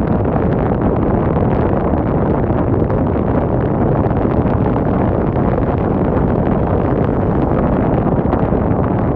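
Strong wind blowing onto the microphone: a loud, steady rushing noise, heaviest in the low range, without let-up.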